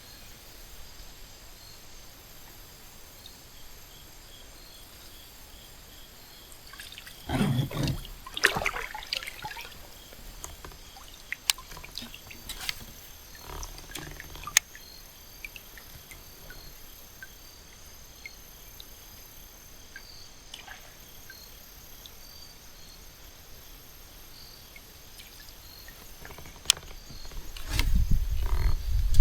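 Quiet creek ambience: faint trickling water with insects chirping in a steady even rhythm. A few louder bumps and sharp clicks come between about seven and fifteen seconds in, and a low rumble swells near the end.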